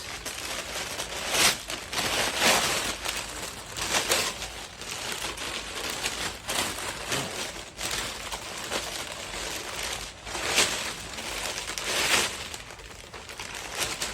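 Packaging crinkling and rustling in irregular bursts as boxed parts are unwrapped and handled by hand.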